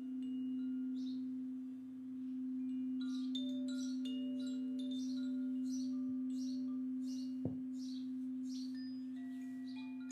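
A singing bowl sustains one steady low hum that slowly swells and fades, with shorter, higher bell-like tones ringing over it. A bird chirps in a steady series from about three seconds in, and there is one soft tap about two-thirds of the way through.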